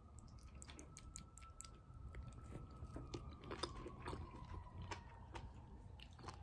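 Faint chewing of a mouthful of pot roast, with small wet clicks and smacks of the mouth, over a faint steady whine.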